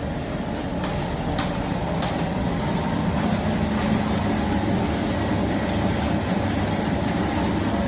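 PE plastic bag cutting machine running with a steady mechanical noise that builds slowly, with short high hissing bursts about twice a second in the second half.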